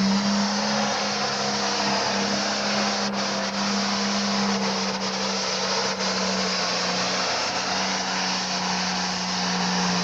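International 966 pulling tractor's engine running at full throttle under load as it drags the pulling sled: a loud, steady high-revving drone whose pitch sags slightly in the second half.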